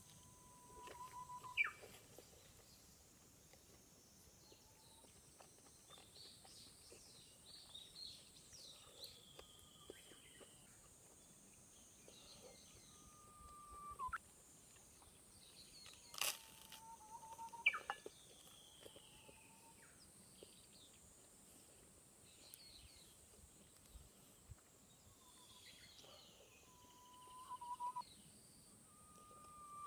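Wild birds calling, faint: whistled notes held briefly at one pitch and then sweeping sharply upward, repeated every few seconds, with thinner high chirps in between. One sharp click about halfway through.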